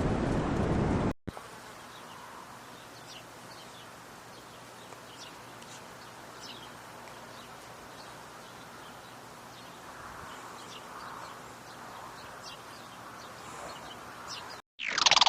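About a second of loud, steady rushing noise cuts off, leaving quiet outdoor ambience with scattered short, high chirps of small birds or insects. Near the end a loud, harsh, buzzy animal call starts, a squawk with a rich stack of overtones.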